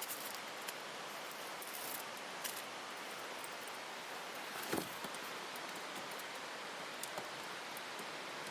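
Steady background hiss with a few faint rustles and clicks, and a soft knock about five seconds in.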